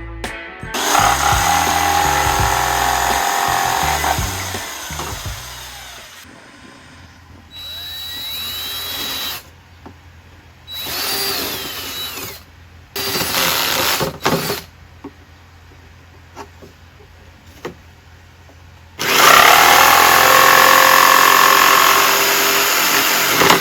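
Electric drill boring a hole, run in several bursts with the motor speeding up and slowing down in the middle, and a longer steady run near the end.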